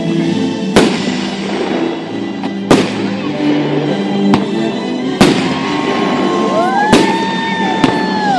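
Fireworks going off in sharp bangs, about six in a few seconds, over music with long held notes.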